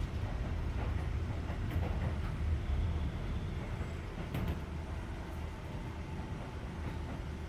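Keisei 3400 series electric train heard from inside a car while running: a steady low rumble of wheels on rail with a few sharp clicks, growing slowly quieter. The air conditioning hisses steadily underneath.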